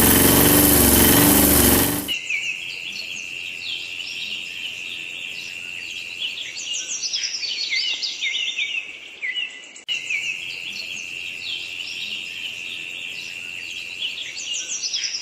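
A tractor engine running loudly, cut off abruptly about two seconds in. Birds chirping and twittering follow, over a steady high whine, with a brief break about ten seconds in.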